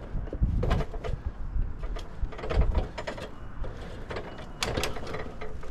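Irregular mechanical clicks and knocks with low thuds: hands-on handling of metal hardware, typical of tools and fittings being worked.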